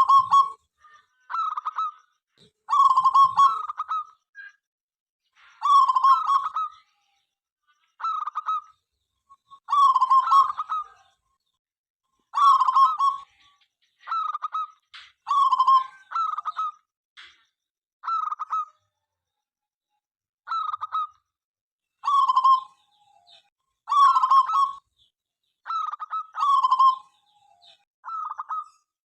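Local zebra dove (perkutut) cooing: short, stuttering coo phrases repeated about every two seconds.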